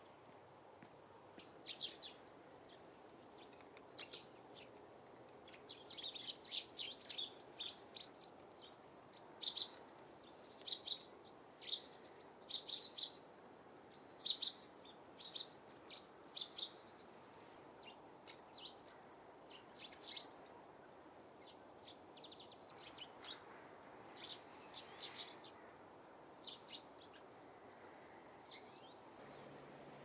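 Small birds chirping in short, sharp calls that come in quick clusters, loudest in the middle, then higher, thinner calls in the second half, over faint steady background noise.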